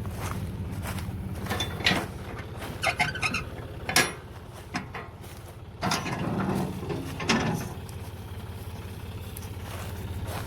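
Farm machine's engine running steadily at harvest, with sharp knocks and rattles over it; the loudest knock comes about four seconds in.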